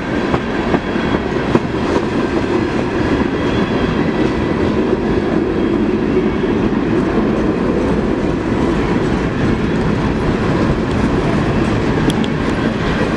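Canadian Pacific freight train rolling past, a loud, steady rumble of steel wheels on the rails with a few sharp clicks.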